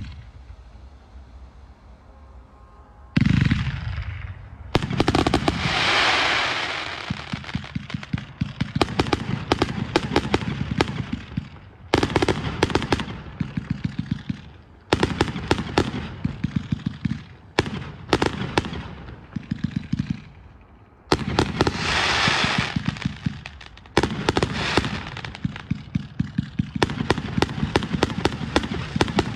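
Fireworks going off: after a brief lull, a sudden bang about three seconds in, then rapid strings of sharp cracks and pops with hissing, crackling bursts, broken by short pauses.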